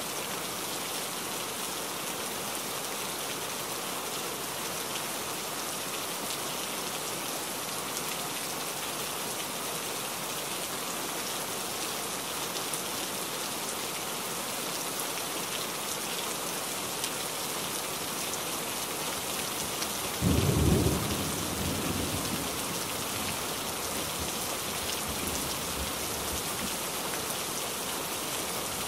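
Heavy rain and road spray hissing steadily on a truck's windshield and cab, heard from inside the cab. About two-thirds of the way through, a sudden loud low rumble lasts about a second and then fades.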